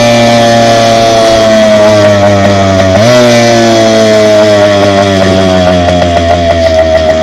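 Dirt bike engine running loud at high revs while riding, its pitch sinking slowly, with a short jump in pitch about three seconds in. The level flutters toward the end.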